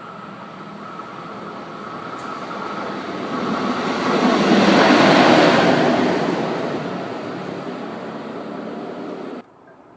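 A train passing through a station at speed: a rushing rail noise swells to its loudest about halfway through, then fades away before cutting off abruptly near the end.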